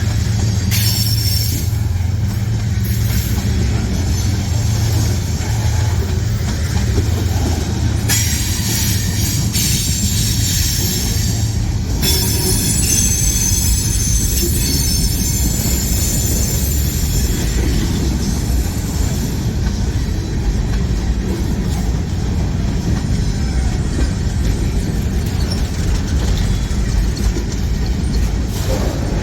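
Freight train cars rolling past with a steady, loud rumble of wheels on rail. High-pitched wheel squeal comes and goes: briefly about a second in, then more strongly from about eight seconds in until roughly halfway through.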